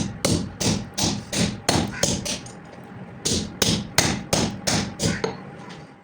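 Hammer blows on hot steel at the anvil, forging a rusty cultivator blade into an axe head. There are about seven evenly paced ringing strikes, roughly three a second, then a pause of about a second, then another run of about seven strikes.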